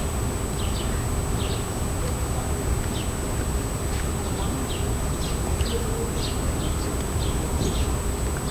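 Small birds chirping: short, high chirps in irregular runs, several a second at times, over a steady low background rumble and a faint, thin, constant high whine.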